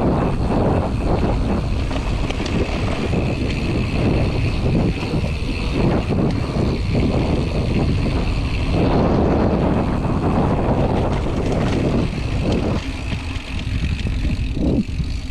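Mountain bike being ridden on a dirt trail: wind rushing over the microphone and tyres rolling over the ground, with irregular rattles and knocks from the bike.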